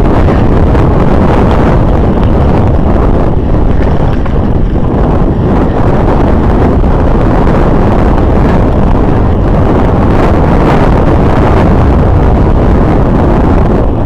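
Loud, steady wind buffeting on the microphone of a camera carried on a moving bicycle on a trail.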